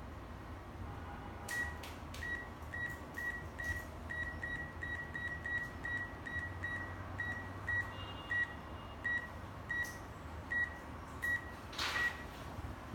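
Handheld Android PDA with a 2D barcode scanner giving about twenty short, same-pitched beeps at roughly two a second: the good-read beep as barcodes are scanned one after another.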